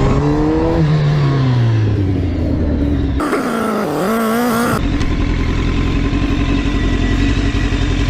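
Vehicle engine sound: an engine note rises in pitch for about a second, then falls away over the next two. A short wavering-pitched passage follows in the middle, then a steady engine drone.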